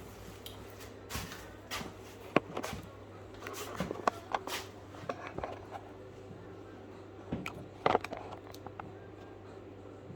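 Scattered handling noises of decorating tools and wallpaper: short clicks, knocks and brief rustles at irregular intervals, the sharpest about two seconds in and again near the end, over a steady low hum.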